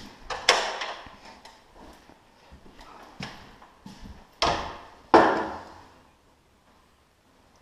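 Knocks and clanks from hand work on a garage door opener's drive chain. Several sharp hits with short ringing tails, the loudest two in quick succession about halfway through, then it goes quiet near the end.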